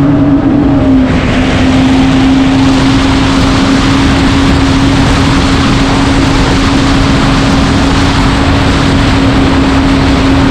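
Supercharged engine of a 2019 Yamaha FX SVHO jet ski at full throttle: it revs up, then holds one steady high pitch, with a loud rush of wind and water rising about a second in.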